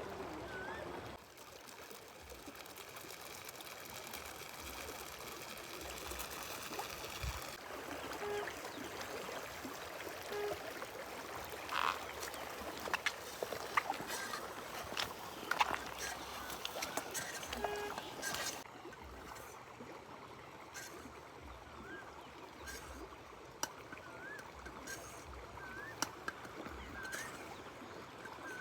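River water running steadily, with scattered sharp clicks and knocks through the middle.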